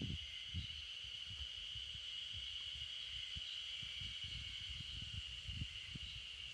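A steady, unbroken high-pitched insect chorus, with an irregular low rumble underneath.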